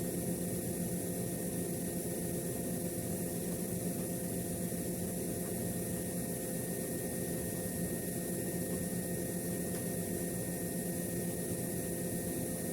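A machine running steadily: an even hum with several fixed tones and a high hiss, unchanging throughout.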